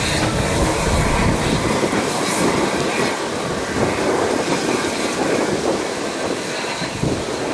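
Train rolling along the track, wheels clattering over the rail with a steady rumble whose deepest part drops away about two seconds in.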